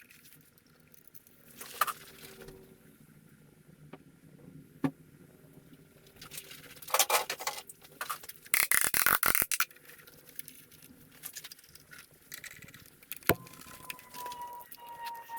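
Metal tools and engine parts clinking, knocking and scraping during hands-on work, with a quick rattling run of clicks about two-thirds of the way through. Near the end a siren starts to wail, its pitch slowly falling.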